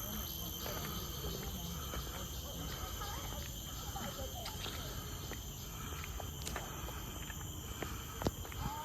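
Steady, high-pitched insect chorus holding several pitches at once, over a low rumble, with faint distant voices and scattered light ticks; one sharper click near the end.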